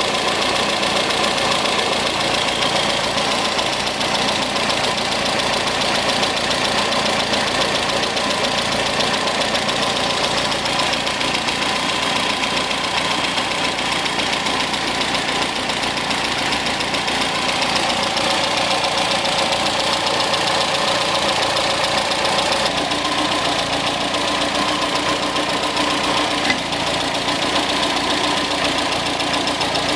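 MGB's 1.8-litre B-series four-cylinder engine running steadily on its twin SU carburettors. The front carburettor is drawing no air while the rear one draws normally, which the owner takes for a fault in the front carb.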